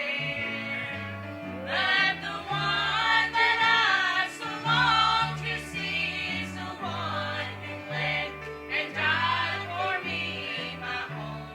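Gospel singing in church: voices sing a hymn-style song with an instrumental accompaniment and a bass line that steps from note to note.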